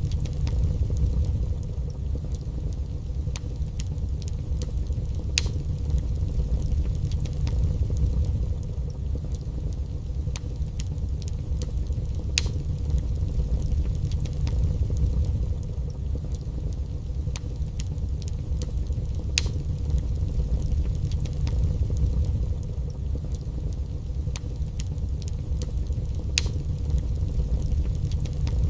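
Wood fire burning in a fireplace: scattered, irregular sharp crackles and pops over a steady low rumble.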